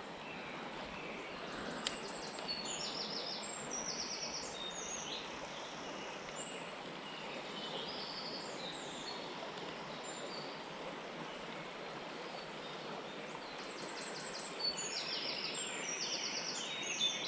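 Small birds singing and calling in quick high trills and chirps over a steady outdoor hiss, the birdsong growing busier near the end.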